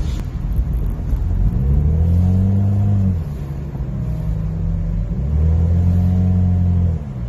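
Cadillac CTS 2.0T's turbocharged four-cylinder engine and modified exhaust, heard from inside the cabin, droning under acceleration. There are two pulls: the drone rises about a second and a half in and holds, eases off around three seconds, then rises again about five seconds in and drops near the end.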